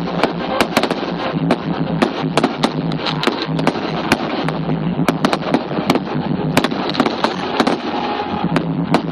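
Aerial fireworks display, a rapid, irregular string of bangs and cracks, several a second, over a continuous crackling haze.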